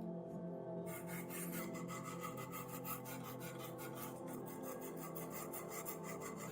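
Abrasive rubbing strokes on metal, like hand sanding or filing, quick and rhythmic at several strokes a second, starting about a second in, over steady background music.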